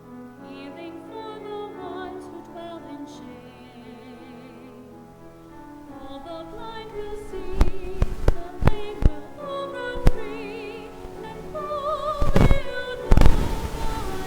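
Classical-style singing with vibrato over sustained accompaniment, as in a church anthem. From about halfway in, several loud sharp pops or knocks cut across the music, and a burst of noise comes near the end.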